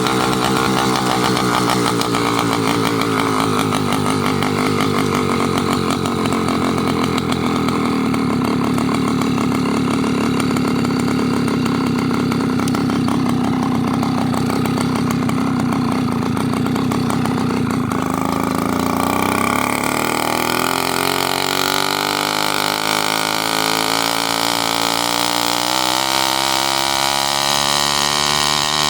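Motorized bicycle's small engine running at a steady pitch, then easing off about two-thirds through and climbing steadily in pitch as it picks up speed again.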